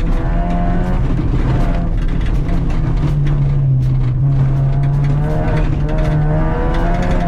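Acura RSX's four-cylinder engine heard from inside the cabin under hard driving on a dirt rallycross course, its note climbing and dropping several times as the driver works the throttle and gears. Frequent sharp ticks of gravel strike the car throughout.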